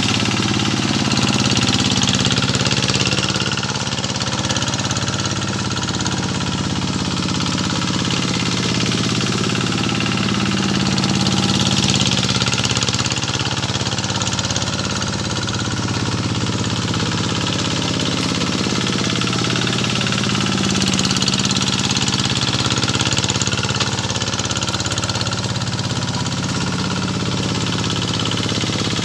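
Single-cylinder diesel engine of a two-wheel paddy tractor running steadily under load, its loudness swelling and easing every several seconds.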